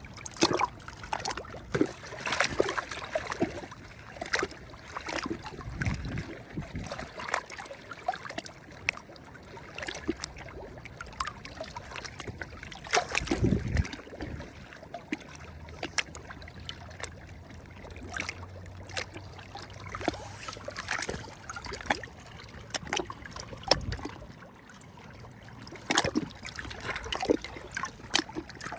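Small sea waves lapping and splashing at the water's edge, with irregular sharp slaps of water. A faint low hum runs through the middle.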